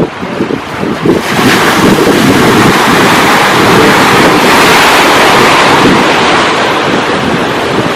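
Sea surf: a wave breaks about a second in and washes in a long, loud hiss, over strong wind buffeting the microphone.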